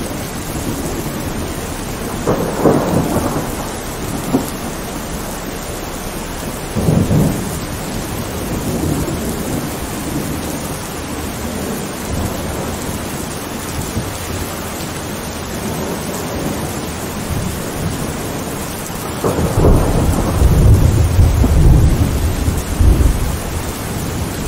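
Thunderstorm: steady rain with two short thunderclaps a few seconds apart, then a longer, louder rumble of thunder lasting several seconds near the end.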